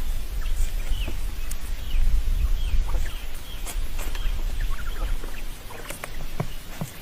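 Birds chirping over a steady low rumble, with scattered clicks.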